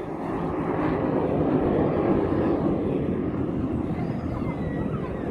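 Jet Provost jet trainer flying past, the noise of its turbojet engine swelling to a peak about two seconds in, then easing slightly.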